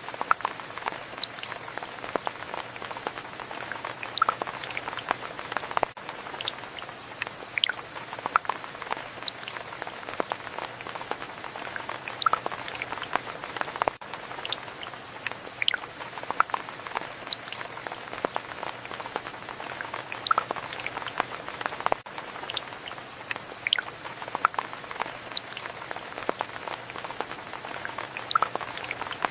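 Rain falling steadily, with a constant patter and many sharp, close drops striking at irregular moments. The pattern of drops repeats about every eight seconds, as a looped recording.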